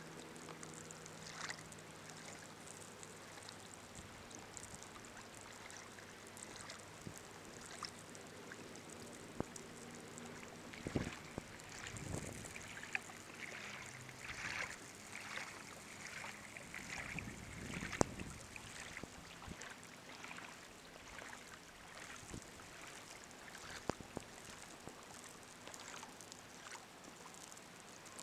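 Water splashing and trickling against a kayak under way, with scattered light clicks and knocks; a faint low hum in the first half fades out.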